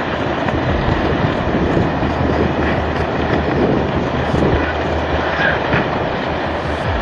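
A landslide's debris and earth rumbling steadily: a continuous, dense noise without breaks.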